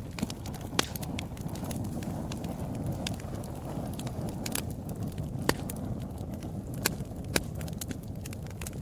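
Wood fire burning in a fireplace: a steady low rush of flames with scattered, irregular crackles and a few louder sharp pops.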